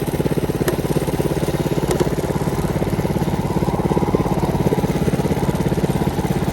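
Mini bike's small single-cylinder engine idling steadily, with an even, rapid putter.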